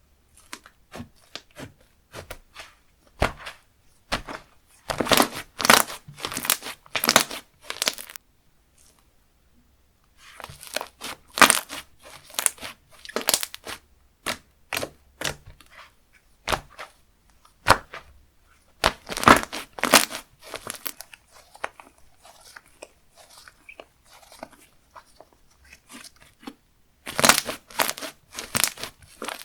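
Hands squishing, pressing and stretching slime, giving clusters of crisp crackling clicks and pops with quieter clicking between them.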